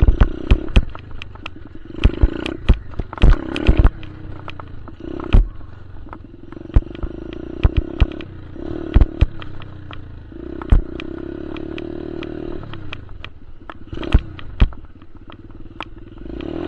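Dirt bike engine running and revving up and down, a longer held rev about two-thirds of the way through that then drops away, with many sharp knocks and clicks throughout.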